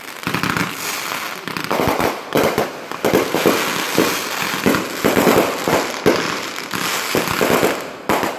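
Fireworks going off: a dense, irregular run of bangs and crackles from aerial shells bursting, with no let-up.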